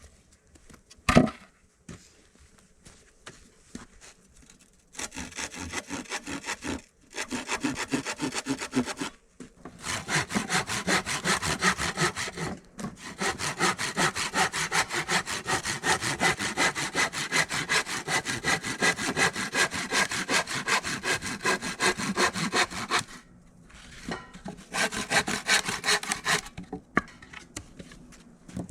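Hand saw cutting through wood in quick, even back-and-forth strokes, in several runs with short pauses between them. There is a single sharp knock about a second in.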